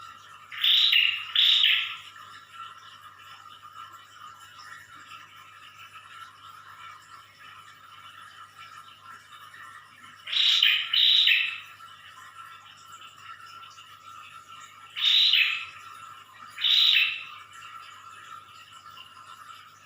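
Prinia (prenjak) giving loud, insistent call bursts in short groups: two about a second in, two near the middle, then two more single bursts a couple of seconds apart. Underneath runs a steady faint hum of aquarium water.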